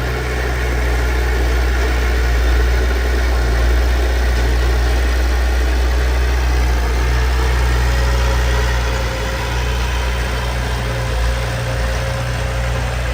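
Heavy diesel engine of earthmoving machinery running steadily with a deep rumble, the speed holding even with no revving.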